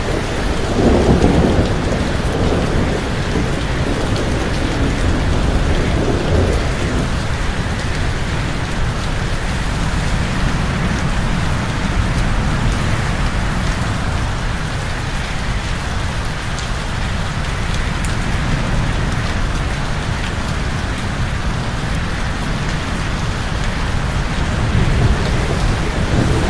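Steady heavy rain falling, with thunder rumbling low for several seconds about a second in and briefly again near the end.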